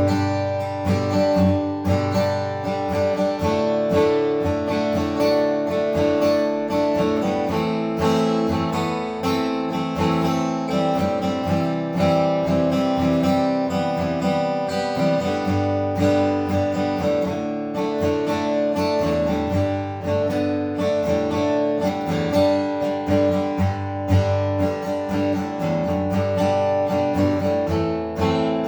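Seagull SWS acoustic guitar with solid mahogany back and sides and light-gauge strings, strummed and played in chords at a steady pace.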